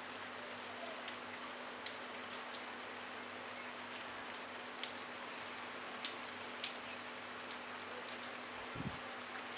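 Light rain falling steadily on a brick rooftop wall: an even hiss with single drops ticking sharply now and then, and a soft low thump near the end.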